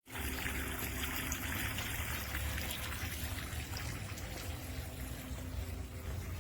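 Water trickling and splashing steadily down the tiers of a four-tier cascade fountain, with a low rumble underneath.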